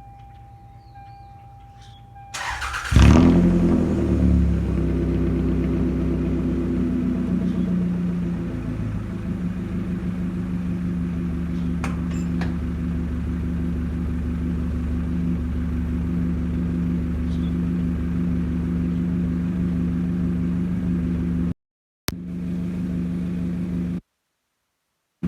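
1992 Toyota Camry engine cranked and started about two seconds in, flaring up loudly as it catches, then settling to a steady idle through an exhaust with the catalytic converter but no resonator or muffler. The sound cuts out completely twice near the end.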